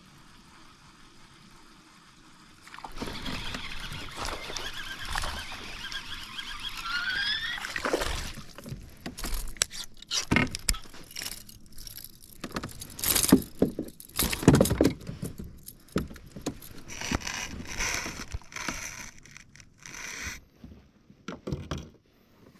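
Knocks, scrapes and rattles of fishing gear being handled in a kayak, with a short rising squeal about seven seconds in and a run of sharp clicks and knocks after it.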